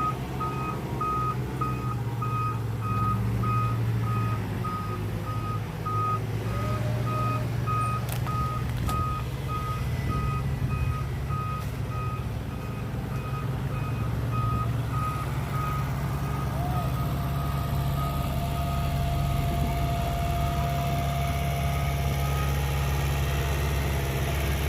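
Heavy earthmoving machine's backup alarm beeping at an even pace over its diesel engine's steady running; the beeping stops near the end while the engine keeps running.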